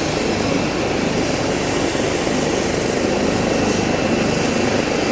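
A helicopter's engine and rotor blades running loud and steady while it sits on the ground, spooled up before lift-off.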